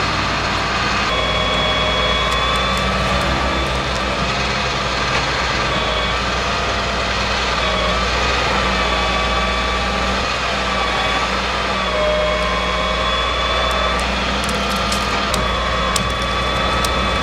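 Tow truck engine running steadily, with a mechanical whine that shifts slightly in pitch every few seconds.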